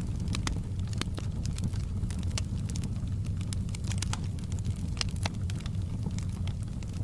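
Wood fire in a fireplace crackling, with frequent irregular pops and snaps over the steady low rumble of the flames.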